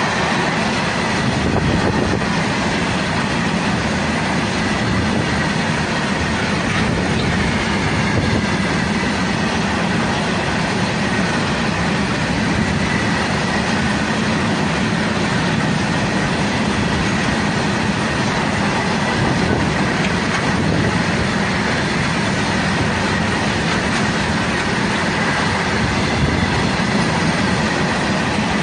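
Open-top freight wagons of a long goods train rolling past close by: a steady, unbroken noise of steel wheels on the rails, with a faint thin squeal from the wheels running under it.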